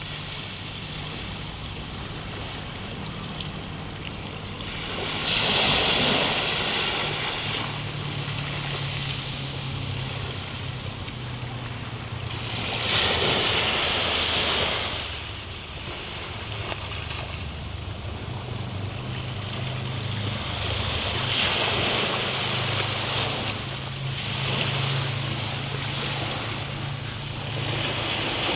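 Ocean surf: waves breaking and washing in, swelling into a louder hiss four times, roughly every eight seconds, over a steady low rumble.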